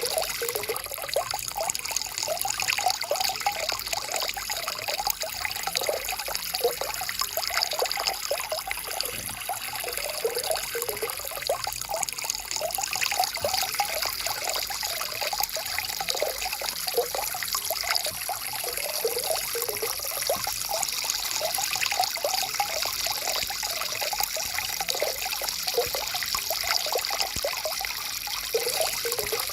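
Forest stream trickling and gurgling over stones: a steady, continuous babble of small water splashes.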